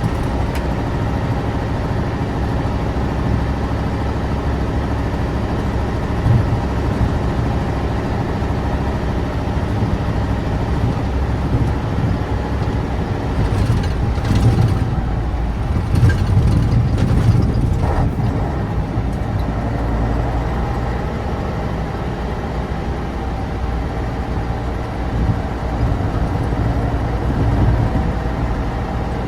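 Tatra 815's air-cooled, naturally aspirated V10 diesel running steadily as the unloaded dump truck drives along, with a few clattering knocks around the middle.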